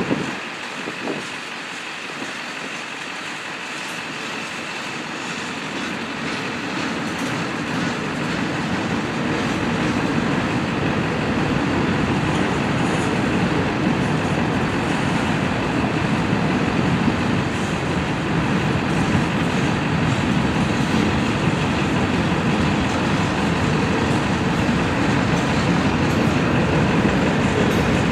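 Freight train's tank cars and covered hopper cars rolling past on the rails: a steady noise of steel wheels on track that grows gradually louder, with a couple of short knocks at the very start.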